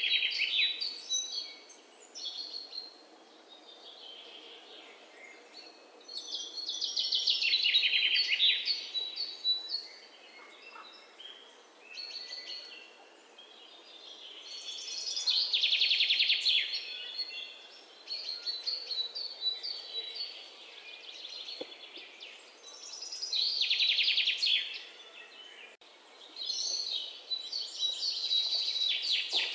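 Songbirds singing. A loud, rapid trilled song phrase that falls in pitch repeats about every eight seconds, with softer chirps in between.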